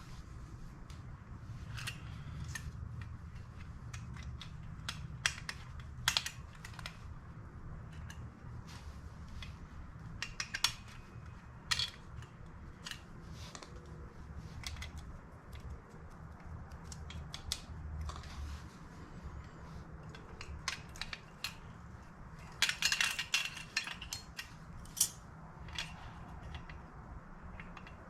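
Small metal parts of a deluxe heater control unit clicking and tapping irregularly as its levers, washers and springs are fitted by hand, with a busier run of clicks near the end, over a steady low hum.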